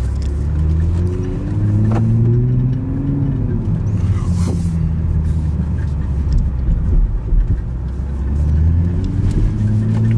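Stock 2021 Toyota Supra's engine heard from inside the cabin while driving, revs climbing for about three seconds, then dropping back and running more steadily, before climbing again near the end.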